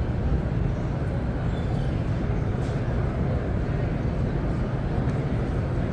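Steady low rumble of background noise with no distinct event standing out.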